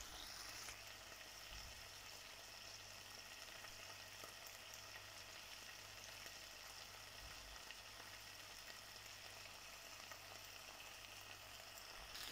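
Faint, steady sizzling of small pork pieces cooking down uncovered in a clay pot, the last of their liquid boiling off.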